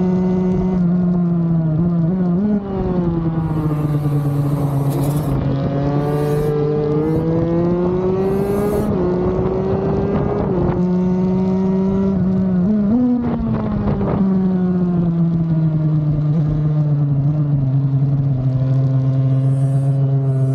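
Kawasaki KX65 two-stroke single-cylinder engine heard from onboard, running hard and changing pitch as the throttle and gears change: it dips and climbs several times, blips once a little after halfway, then falls slowly in pitch as the bike slows.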